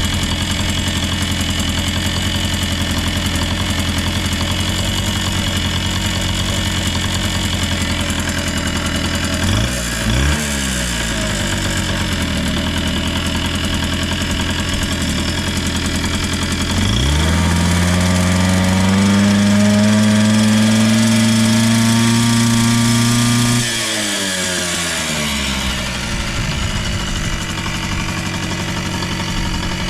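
Yamaha YB-1 50cc engine idling steadily. It is blipped twice about ten seconds in, then held at raised revs for about six seconds, creeping slightly higher, before dropping back to idle. The engine is warming from a cold start and revs up cleanly with no abnormal noise.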